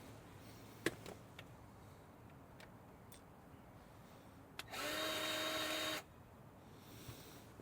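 A small power tool runs in one burst of about a second at a steady pitch, the loudest sound here. Before it come a few light clicks of parts and tools being handled.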